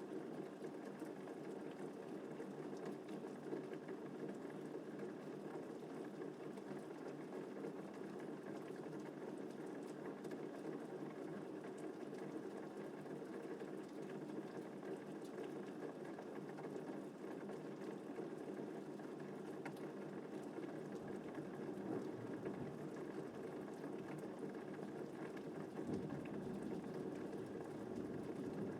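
Steady rain with a dense patter of drops. In the last several seconds a low rumble of thunder builds underneath.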